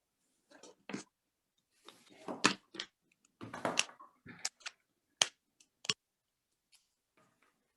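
Pens and paper being handled at a desk: about seven sharp, irregular clicks mixed with short rustling scrapes, the busiest stretch in the middle and only faint touches near the end.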